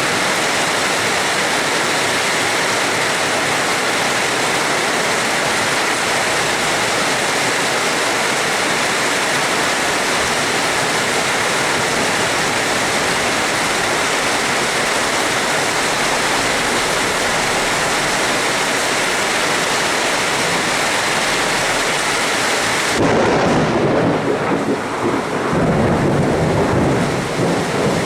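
Steady heavy rain hissing, then a rumble of thunder that comes in suddenly about four-fifths of the way through and rolls on unevenly to the end.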